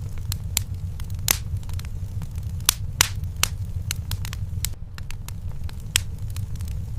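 Wood fire in a fireplace crackling, with irregular sharp pops, a few of them louder, over a steady low rumble.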